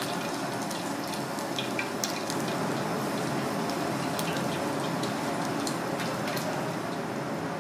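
Battered razor fish pieces frying in shallow oil in a pan: a steady sizzle with scattered pops and crackles, which thin out near the end.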